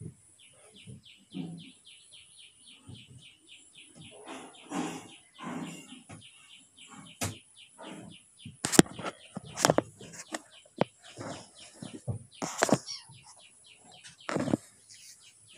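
A bird chirping in a fast, even run of short high notes, about six a second, for the first several seconds. It is followed by a series of sharp knocks and thumps spread through the rest.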